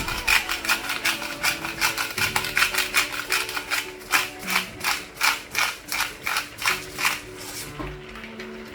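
A hand-worked kitchen utensil making a rhythmic series of sharp clicks, about three or four a second, which stop a little before the end.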